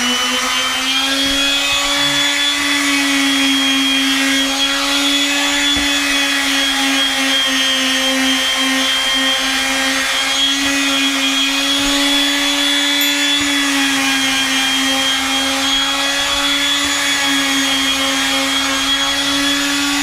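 Makita random-orbit palm sander running steadily at full speed with a constant whine, sanding missed spots on the deck boards.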